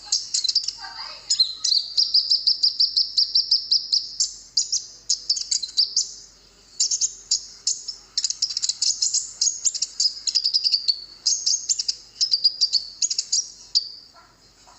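Olive-backed sunbird (kolibri ninja) singing: fast, high-pitched chattering trills and chirps, with brief pauses about six seconds in and again near the end.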